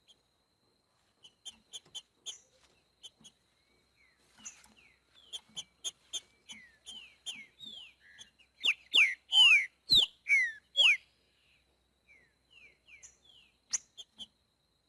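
Trinca-ferro (green-winged saltator) singing: a string of short, quick, downward-slurred whistled notes, swelling into a loud burst of strong sweeping whistles around the middle, then softer notes again toward the end.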